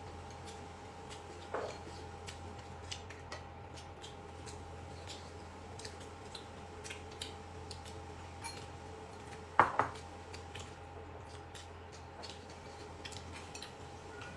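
Eating utensils clinking against dishes at a meal: scattered light clicks, one ringing clink about a second and a half in and a louder double clink about ten seconds in, over a steady low hum.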